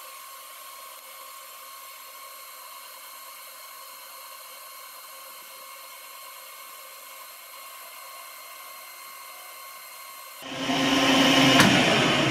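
Metal lathe in a workshop: a faint, steady high-pitched hum for about ten seconds, then the lathe comes up loud near the end, boring a bearing end cover, with a sharp click shortly after.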